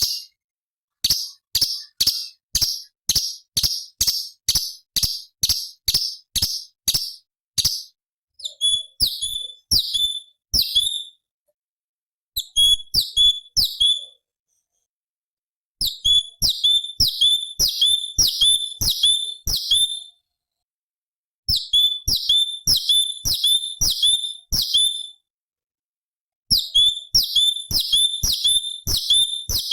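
Orange-bellied leafbird (cucak cungkok) singing. For the first several seconds it gives a run of sharp repeated notes, about two a second, then bursts of quick high chirping phrases, each a few seconds long, separated by short pauses.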